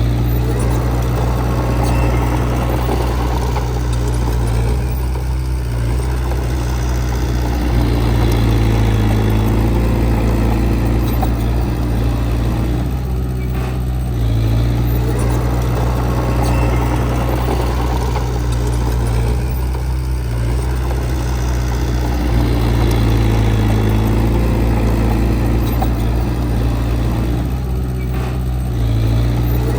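Heavy earthmoving machine's diesel engine running steadily, swelling and easing under changing load every six or seven seconds.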